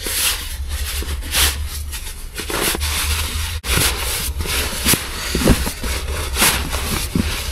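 Irregular rustling, crackling and scraping of camping gear being handled and packed, over a steady low rumble.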